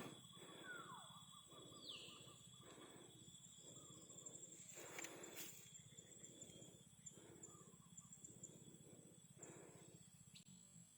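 Faint wild birds calling, with short whistles that slide downward in pitch, over a steady high insect drone.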